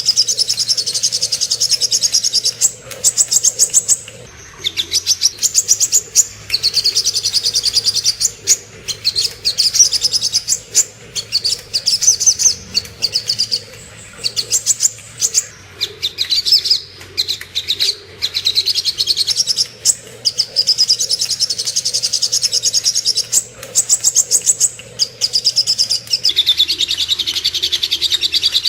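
Sogok ontong (spiderhunter) song: loud, fast high-pitched trills of rapidly repeated notes, in phrases of a second or two broken by short pauses, played as a masteran recording to train songbirds.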